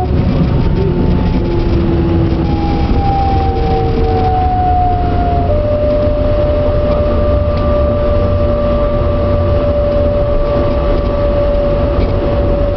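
Regional train heard from inside the carriage as it rolls slowly through the station: a steady running rumble with thin whining tones that slowly drop in pitch, the sound of the train slowing down.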